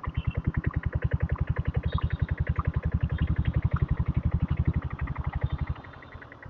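Single-cylinder diesel engine of a diesel Bullet motorcycle running on the road, with a fast, even exhaust beat of about a dozen pulses a second. Near the end the beat drops quieter as the throttle eases off.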